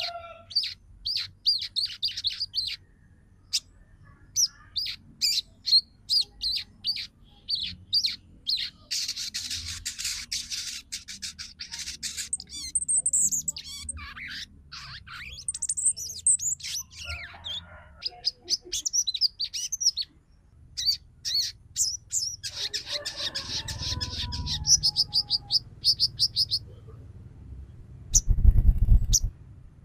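A female crimson sunbird (sogon) calling, a lure call to excite males. It gives a string of sharp, high chips, breaks into a rapid chattering trill for a few seconds, and adds some arching whistled notes. A low bump or rumble sounds near the end.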